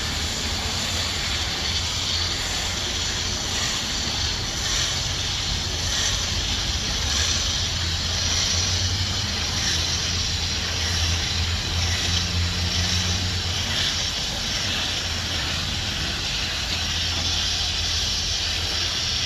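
Water from a garden hose spraying steadily through the condenser coil of an old Lennox air-conditioning unit, rinsing the dirt out, a continuous hiss over a steady low hum.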